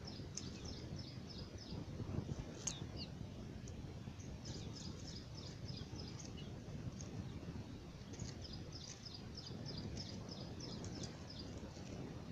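Small bird chirping in quick runs of short high notes, several runs with pauses between, over a steady low outdoor rumble.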